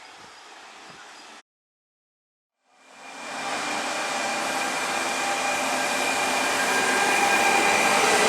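Faint background hiss, cut off to dead silence about a second and a half in. Then an electric train fades in and runs through the station, getting steadily louder: a rush of wheel and rail noise with several steady whining tones from its electric drive.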